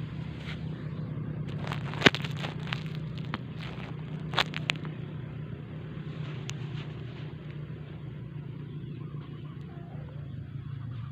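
An engine running steadily with an even low drone, with a few sharp clicks about two seconds in and again near four and a half seconds.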